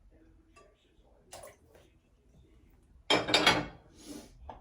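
Kitchen dishes and a utensil clattering: a dense burst of knocks and scrapes a little after three seconds in, then a couple of lighter knocks.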